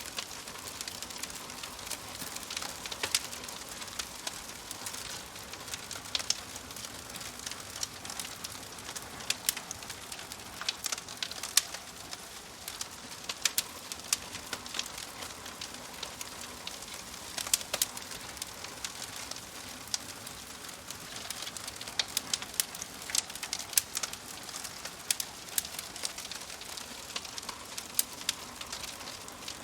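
Logs burning in a fireplace, crackling: a steady soft hiss with irregular sharp pops and snaps.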